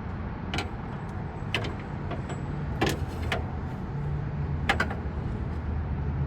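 Scattered metallic clicks and knocks of a socket and hand tools being handled against metal in a car's engine bay, over a steady low hum.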